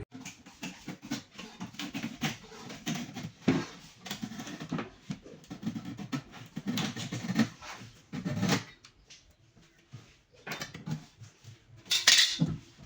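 Irregular clattering and knocking of hard objects being handled, with a short hissing burst near the end.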